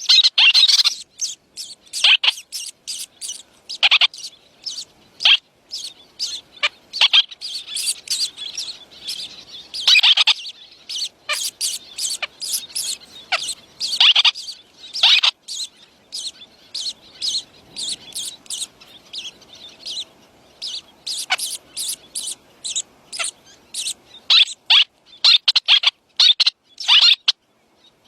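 Young birds chirping to be fed: many short, high chirps in quick, irregular runs, some of them loud, with brief pauses between.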